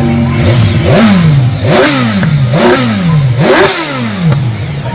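Motorcycle engine revved four times in quick blips, each rev rising sharply and falling back, about a second apart.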